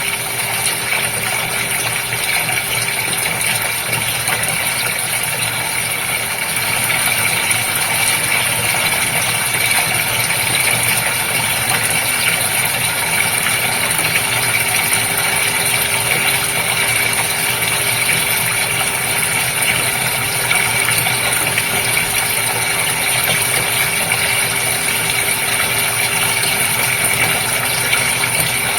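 Steady running and bubbling water in a goldfish aquarium, with a faint steady hum underneath.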